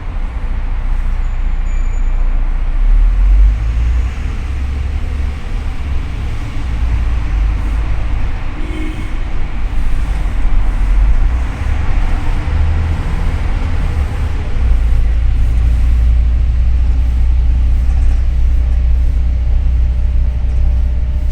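Double-decker city bus under way, heard from inside the cabin: a steady low engine rumble with road noise, getting louder about two-thirds of the way through.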